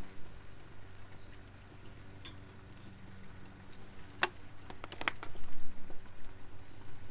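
A short run of sharp clicks and clinks about four to five seconds in, over a steady low hum.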